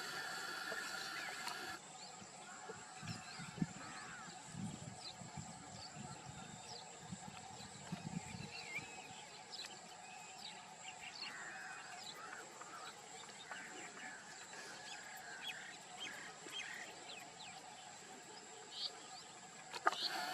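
Outdoor wildlife sound: scattered short bird chirps over a faint steady high hum, with a low rumble a few seconds in.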